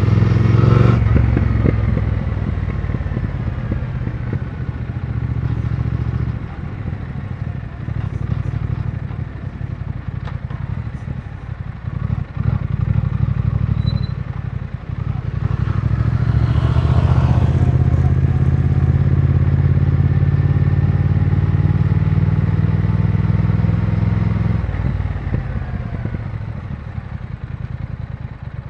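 2020 Triumph Speed Twin 1200's 1200 cc parallel-twin engine and exhaust under way, revs rising and falling as it is ridden hard, easing to a lower, quieter run near the end. It is being held at high revs to work fuel injector cleaner through after a rough idle.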